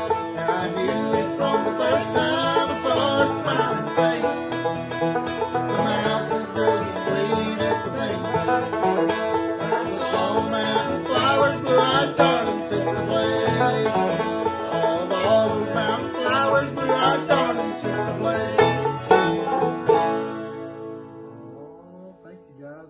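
Bluegrass picking on banjo and guitar with no singing. The song ends about twenty seconds in, and the last notes ring out and fade.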